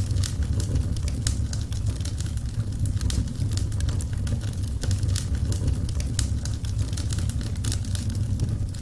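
Wood fire burning in a fireplace: many sharp crackles and pops over a steady low rumble of the flames.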